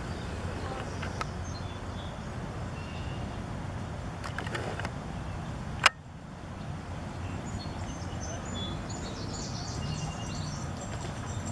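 Outdoor ambience: a steady low background noise with a few short bird chirps scattered through. A single sharp click about six seconds in is the loudest sound.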